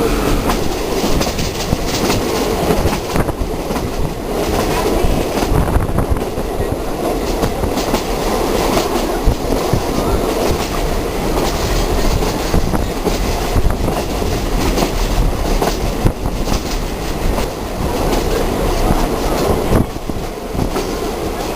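A train running along the track: steady running noise with the wheels clattering over the rail joints.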